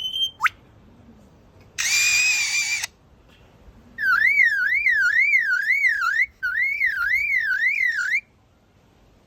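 Lyrebird mimicking: a harsh buzzy call about two seconds in, then a warbling, siren-like whistle swooping up and down about two and a half times a second for about four seconds, with a short break partway, like an imitated car alarm.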